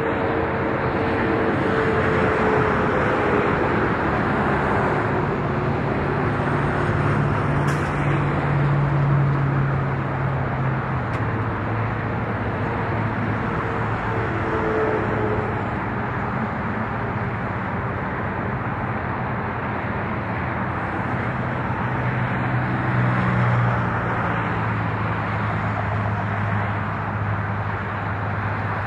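Freight train rolling past: a steady rumble of wheels on rail with a low drone underneath.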